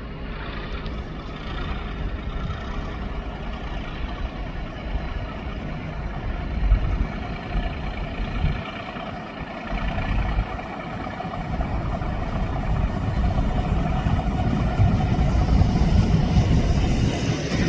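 Class 37 diesel locomotive's English Electric V12 engine running, growing louder over the last several seconds as the train approaches, with wind rumbling on the microphone.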